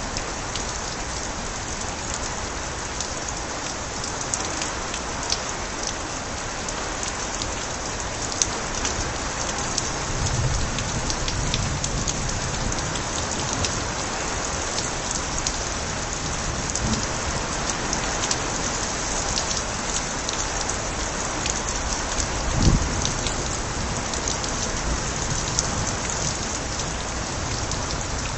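Steady rain spilling from overflowing gutters: a dense, even hiss with many individual drops splashing close by. One brief low thump comes about three quarters of the way through.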